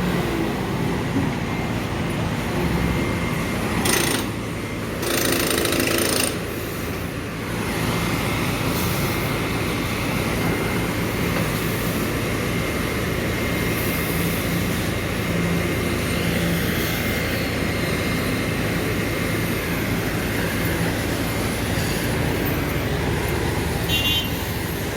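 Heavy diesel engine running steadily with a fast low pulsing, with a couple of short hissing bursts about four and five seconds in.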